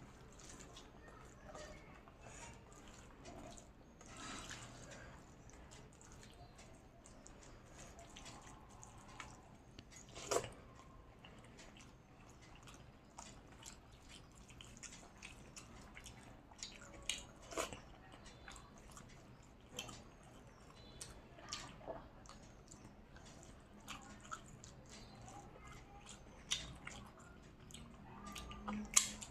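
Close-up eating sounds: chewing and wet mouth noises of rice and curry being eaten, with scattered short, sharp smacks and clicks.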